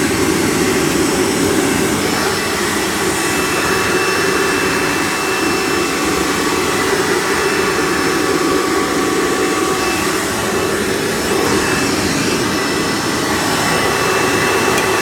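Hoover Breathe Easy U5270-930 upright vacuum, with its 7.3-amp direct-air motor, running steadily in tool mode, pulling air through the on-board hose and upholstery tool. A few faint steady whine tones sit over the air rush and shift slightly partway through.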